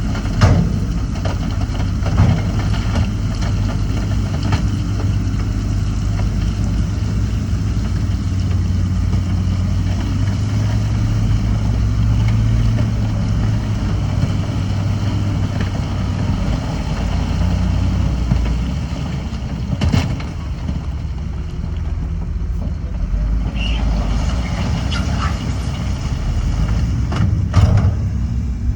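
Heavy diesel engine of earthmoving machinery running steadily under load, with a few sharp metallic knocks and clanks.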